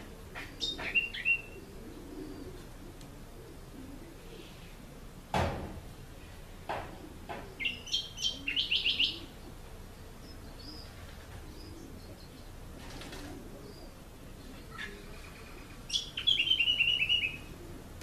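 A songbird singing three short phrases several seconds apart, each ending in a quick run of repeated high notes. A single sharp knock comes about five seconds in.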